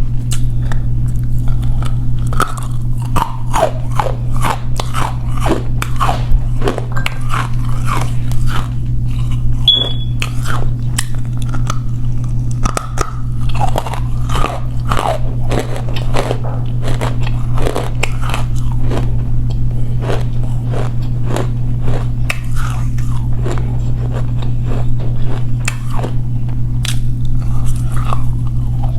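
Close-miked biting and chewing of dry edible clay: irregular crisp crunches and crackles, several a second, over a steady low hum.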